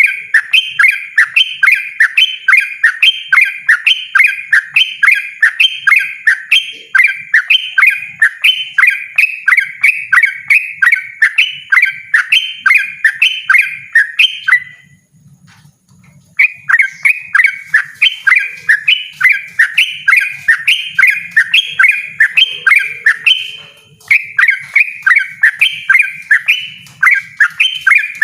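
Yellow-vented bulbul (trucukan) singing a long, loud run of rapid repeated notes, about two to three a second, in the continuous 'ropel' style. The song breaks off for about two seconds halfway through, then resumes, with another short pause near the end.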